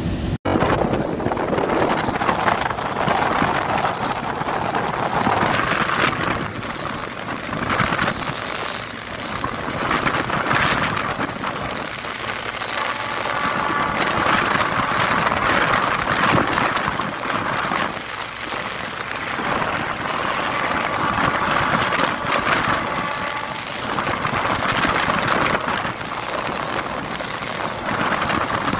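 Passenger train running along the line, heard from an open coach doorway: a steady rush of wind buffeting the microphone over the rumble of the wheels on the rails, swelling and easing every few seconds. A faint high whine comes and goes twice.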